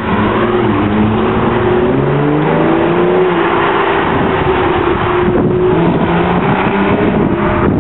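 Sports car engines revving and accelerating past at close range. The engine note rises over the first few seconds, then holds steady.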